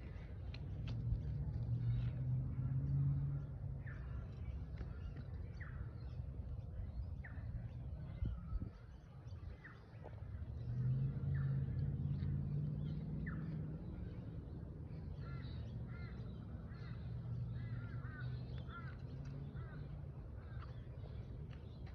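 Birds chirping in short, repeated downward-sliding calls, over a low rumble that swells about a second in and again about eleven seconds in.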